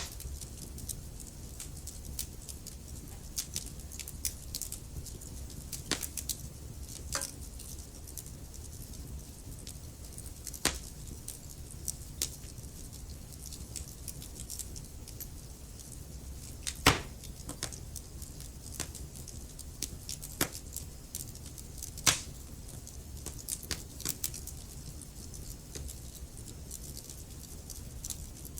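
Wood fire burning in a fireplace: a low steady rumble with irregular sharp crackles and pops, a few louder pops standing out.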